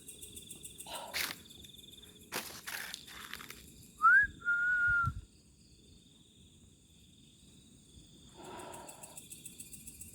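A clear two-part whistle, a short rising note followed by a longer level note, about four seconds in, over a steady chorus of night insects; a few rustling or stepping sounds come before it.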